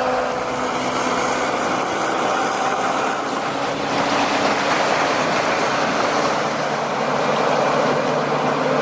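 Forestry tractor's engine running steadily under load.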